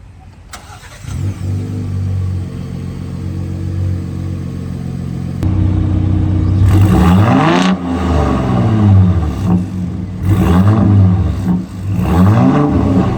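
Ford F-150 Raptor's engine starting about half a second in, settling into a steady idle, then revved several times in quick blips that rise and fall in pitch.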